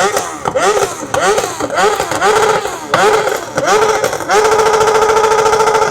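Car engine revved hard in quick repeated throttle blips, the pitch rising and falling each time. It is then held at steady high revs for the last second and a half.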